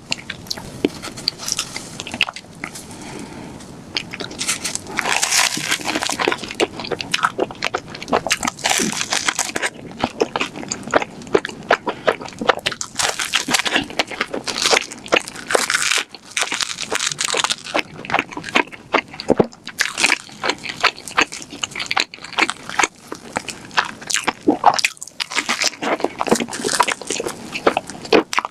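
Close-miked mouth sounds of eating donuts with whipped cream: biting and chewing, a dense run of small wet clicks that swells into louder spells now and then.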